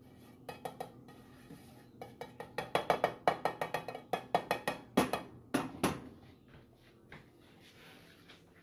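A cooking utensil clattering against a frying pan in a quick run of knocks while chicken strips are stirred in butter. The strikes come about four or five a second, with two louder ones about five seconds in, then stop.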